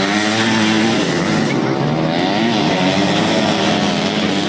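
Racing motorcycle engines on a dirt track, revving hard, their pitch rising and falling as the riders open and close the throttle.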